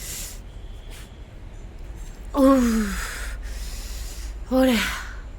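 A person's voice making two short, breathy exclamations like sighs or gasps, each falling in pitch, about two seconds apart, over a steady low hum.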